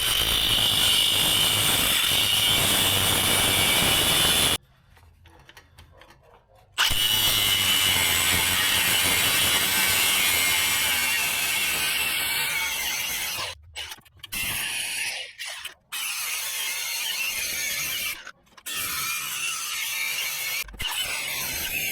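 A handheld power tool running in long bursts on steel, with a rattling, ratchet-like sound. It runs for about four and a half seconds, stops for two, runs for about seven more, then comes in shorter bursts with brief stops near the end.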